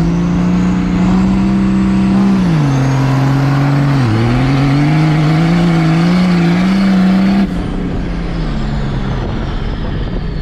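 Diesel pickup engine at full throttle on a sand drag pass: the pitch climbs, drops once at a gear change about two and a half seconds in, climbs again, then falls away sharply near three-quarters of the way through as the throttle is lifted.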